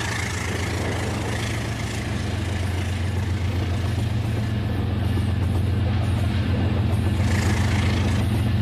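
Toy train running on its track: a steady low motor hum over the rattle of the running gear, slowly getting louder.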